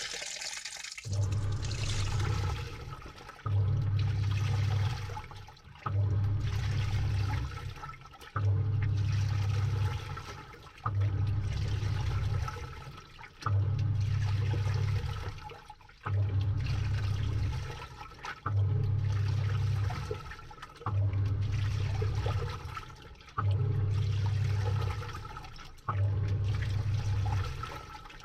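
Samsung top-load washing machine heard from inside its drum during the wash phase. About a second in the water inflow hiss stops. The pulsator motor then drives the load in even pulses, about one every two and a half seconds, eleven in all, each a low hum with water and laundry sloshing around.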